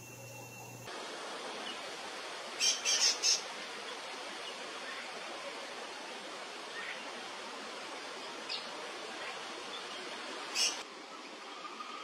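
Small birds chirping: four quick, sharp high chirps about three seconds in, a few faint calls after, and one more sharp chirp near the end, over a steady outdoor hiss.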